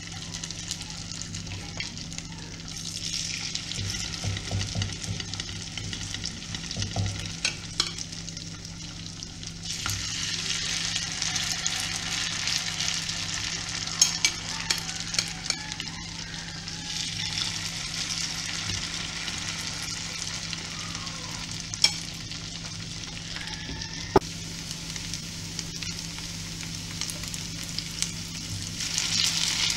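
Grated-potato pancakes (draniki) sizzling in hot vegetable oil and butter as spoonfuls of batter are laid into the frying pan. The sizzle swells and eases in several waves as fresh batter goes in, with a few sharp clicks.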